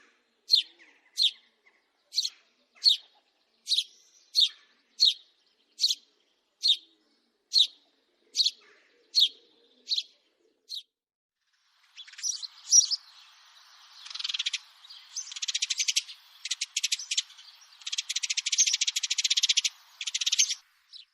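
House sparrow chirping: single short chirps repeated about every 0.7 seconds for roughly ten seconds, then a faster, dense chatter of rapid notes in several runs.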